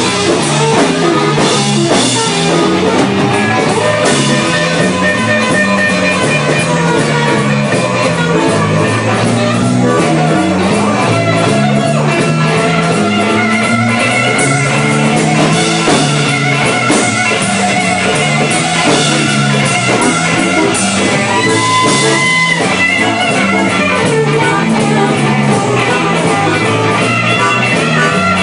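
Blues band playing an instrumental passage: electric guitar over a repeating stepping bass line and a drum kit beat, the guitar bending notes about two-thirds of the way in.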